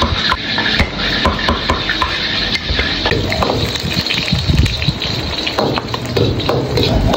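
Chopped garlic sizzling and spattering in hot oil in a wok, with a metal ladle scraping and clicking against the pan, over the steady roar of the gas wok burner.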